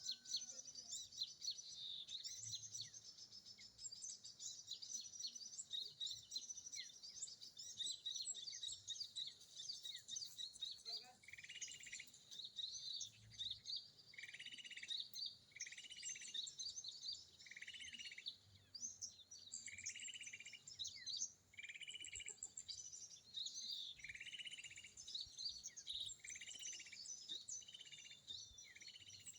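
Small birds twittering: dense high chirping throughout, and from about halfway in a short lower trill that repeats about every one and a half seconds, a sound used for luring sunbirds.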